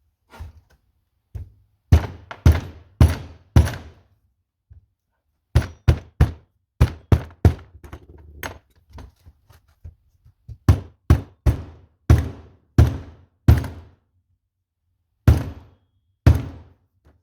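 Repeated sharp knocks on the seized carburetor, in runs of several at about two a second with short pauses between: striking it to break a frozen part loose.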